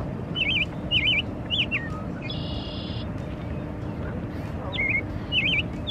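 Songbirds singing: short, wavy whistled notes repeated about every half second, with a brief buzzy note around two and a half seconds in, over a steady low background noise.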